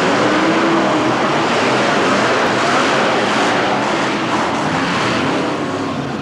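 Monster truck engine running hard and revving at high volume, with a brief rise in pitch near the start.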